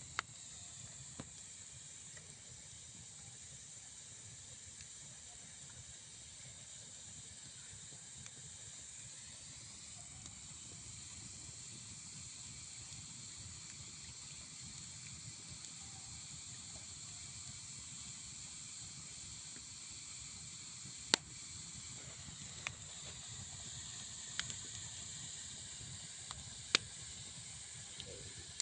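Campfire burning with a steady high hiss, broken by a few sharp crackling pops, the loudest about two-thirds of the way in and again near the end.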